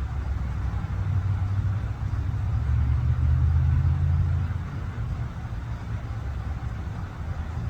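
An engine running with a low, steady hum that swells about a second in and eases off after about four and a half seconds.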